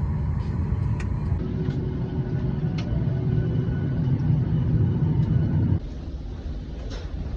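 Low, steady rumble of a vehicle in motion heard from inside, with a few light clicks. The rumble drops away abruptly near the end.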